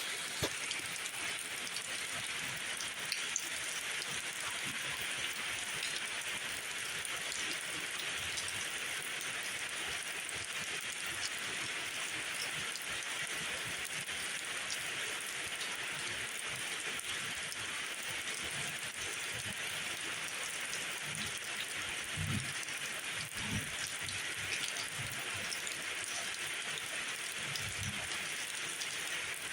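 Steady rain falling, a dense even hiss with scattered individual drops ticking through it. A few short low thuds come in the last third.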